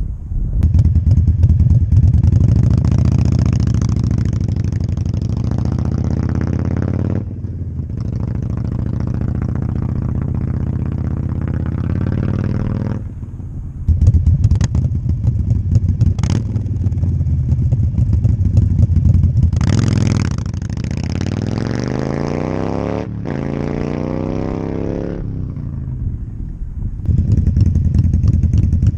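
Harley-Davidson Sportster Iron 883's air-cooled V-twin running loud through Vance & Hines Grenades slip-on mufflers while being ridden. The engine note climbs in pitch under throttle and drops off at each gear change, several times over.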